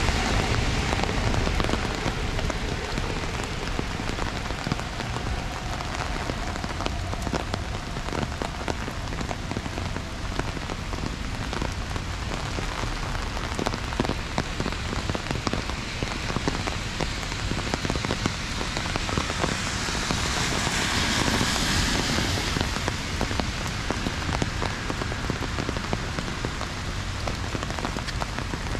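Heavy rain falling steadily, a dense hiss made up of countless individual drops ticking. About twenty seconds in, a louder hiss swells for a couple of seconds and then fades.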